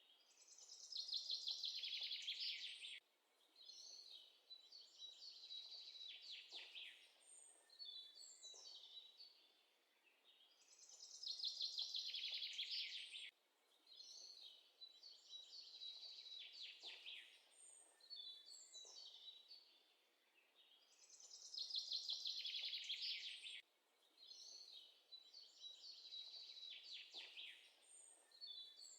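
Looped recording of birdsong: bursts of chirps and rapid trills, the same sequence repeating about every ten seconds.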